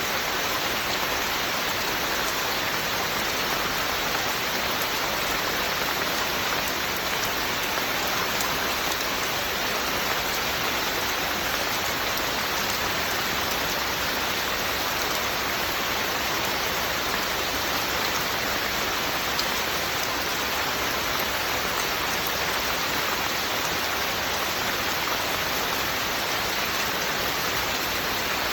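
Steady, even rain falling, with no change in intensity.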